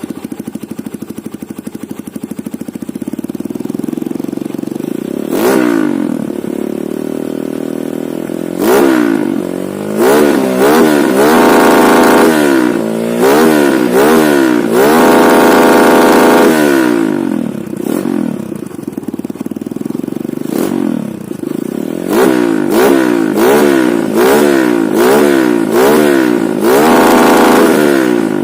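Kawasaki KLX 150's single-cylinder four-stroke engine running through an aftermarket Over exhaust. The engine is stock apart from a PE28 carburettor. It idles and is revved repeatedly: single blips about five and nine seconds in, then revs held high around twelve and fifteen seconds, then a quick series of short blips near the end.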